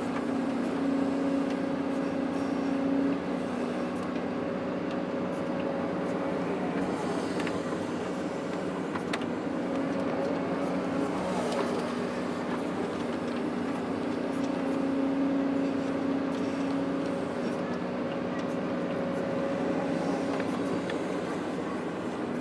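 Heavy diesel engine of earthmoving machinery running steadily, its drone swelling and easing several times as throttle or load changes.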